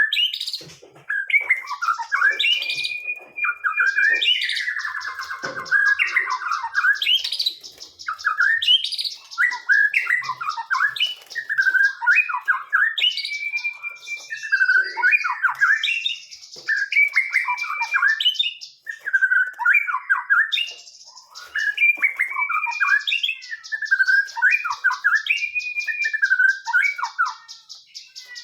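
Caged songbirds singing and calling without pause: short whistled phrases that rise and fall, over a fast, dry chatter from another bird that comes and goes.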